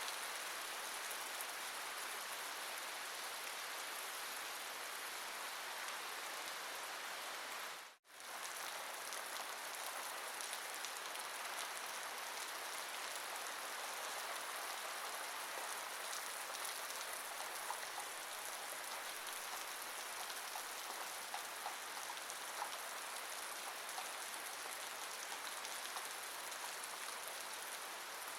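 Steady rain falling, an even hiss of drops with a few separate drips heard later on. About eight seconds in the sound cuts out almost to silence for a moment, then comes straight back.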